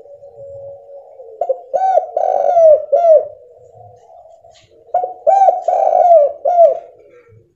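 Spotted dove cooing: two phrases of several quick, arched coos, about a second and a half in and again about five seconds in, with fainter cooing between them.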